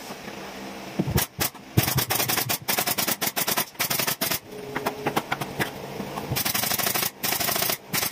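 Rapid runs of sharp clacks in quick succession with short pauses between runs, typical of a pneumatic nail gun firing during carpentry.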